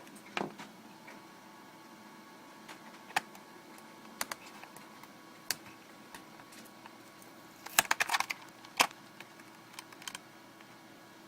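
Scattered small clicks and taps of hands handling small plastic parts and double-sided tape, with a quick cluster of several clicks about eight seconds in.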